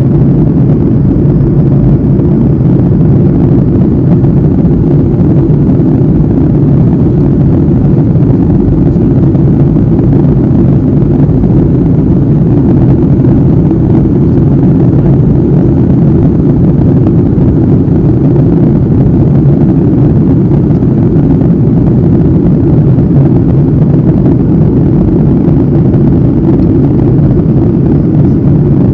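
Airliner cabin noise in cruise: a steady, loud low roar of engines and airflow past the fuselage, heard at a window seat, with no change.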